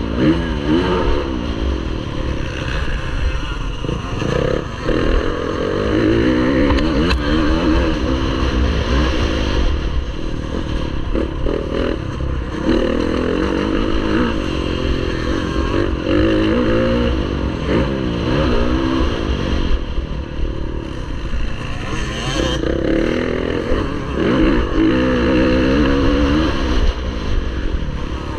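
Motocross bike engine revving up and falling back over and over as it accelerates, shifts and slows around the track, with wind rushing on the microphone underneath.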